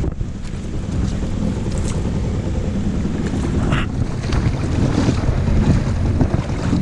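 Small two-stroke outboard (a 2 hp Spirit, Suzuki-built) running steadily, with wind buffeting the microphone.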